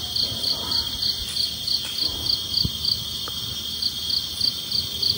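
Crickets and other insects calling in a night forest chorus: a steady high trill with a second insect chirping in regular pulses about twice a second over it.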